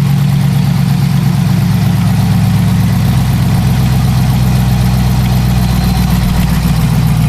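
Jeep's Hemi V8 idling, loud and steady, shortly after a cold start. The owner suspects the engine has a Hemi tick.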